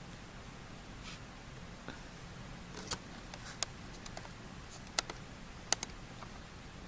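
Quiet room tone with a low hum, broken by a few short, sharp clicks, about four of them, in the second half; no meowing.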